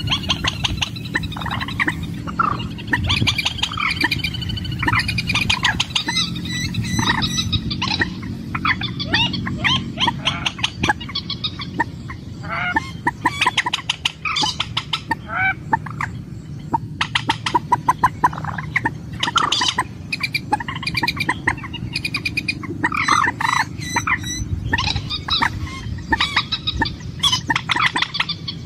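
A red-shielded rail (trích rẽ, mandar) calling for a mate, in repeated runs of rapid clucking pulses and short calls, over a steady low hum.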